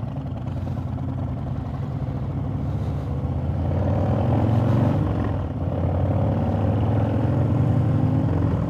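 Harley-Davidson V-twin motorcycle engine pulling away and accelerating. The note rises and grows louder, dips briefly about five and a half seconds in, then runs on steadily.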